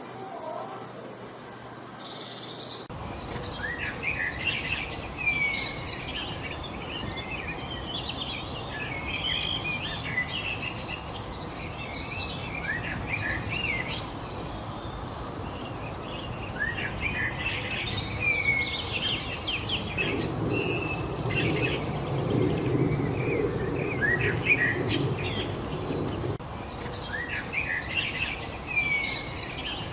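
Several small birds chirping and singing together in a busy, overlapping chorus of short high notes, over a steady background hiss. For about six seconds two-thirds of the way in, a low rumble sits under the birdsong.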